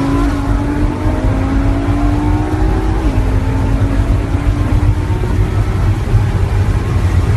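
An engine under way, its pitch climbing steadily, with a brief drop about three seconds in like a gear change, over a heavy low rumble.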